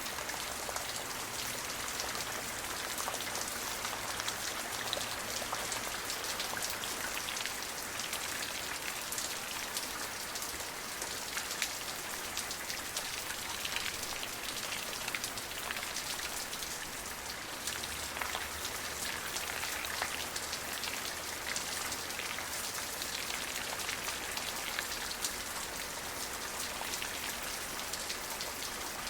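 Steady rain falling: an even, hissing wash of sound with many small, sharp drop ticks scattered through it.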